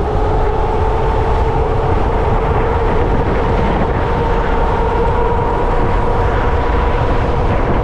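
Freego X2 electric dirt bike's motor whining steadily at near top speed, with heavy wind rumble on the helmet-camera microphone.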